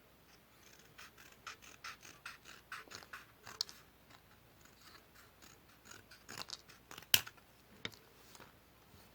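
Scissors cutting paper: a quick run of short snips, about three a second, then a few separate, sharper snips with pauses between them.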